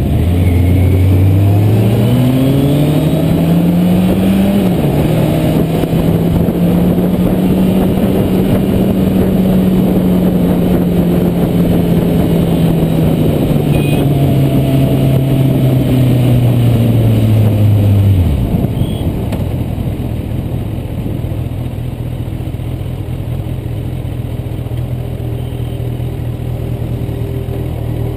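Kawasaki Z800's inline-four engine pulling hard, its note rising for a few seconds, stepping down with an upshift, then holding steady while cruising. Later it winds down as the bike slows, and the engine note fades out about 18 seconds in, leaving a steady rush of wind and road noise.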